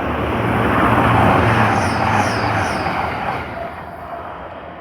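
Grand Central Class 180 Adelante diesel multiple unit going by with its diesel engines and wheels on the rails. The noise builds to a peak about a second in and then fades as the train moves away, and the low engine hum drops out near three seconds.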